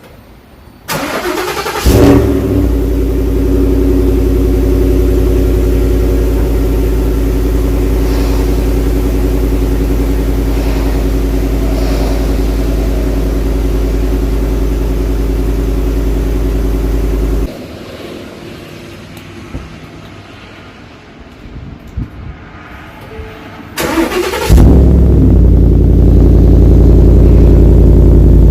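Ford 5.0 Coyote V8 cold-started twice. Each time the starter cranks for about a second, the engine catches with a rev flare, then settles into a steady idle. The first run stops abruptly partway through. The second start, near the end, is noticeably louder, through the MBRP side-exit exhaust with resonator.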